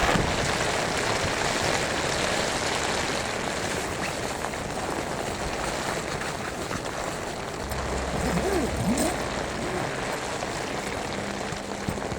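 Steady rain falling, an even hiss, with a brief low rumble about eight seconds in.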